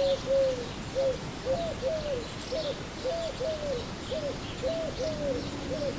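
Bird calls: a steady run of short arched whistles, about two or three a second, with fainter high chirps behind them.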